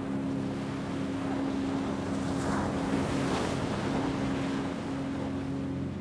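Ocean wave washing in, its hiss swelling to a peak about halfway through and then easing, over a steady low hum of several held tones.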